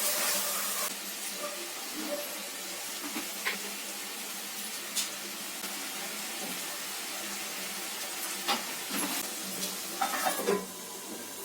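Masala frying in a pan with a steady sizzle, a louder burst of hissing at the start, and a few clinks and scrapes of a stirring spoon, the last of them clustered near the end.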